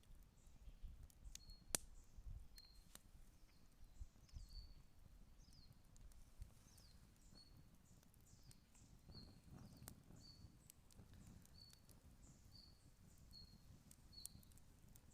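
Campfire crackling faintly with scattered sharp pops, the loudest about two seconds in, over a low rumble. A high chirp-like call repeats about once a second.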